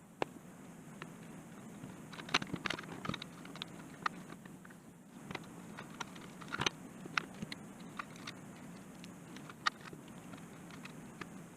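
Irregular small clicks and taps of hands working on a handheld spotlight's parts and plastic housing, over a steady low hum.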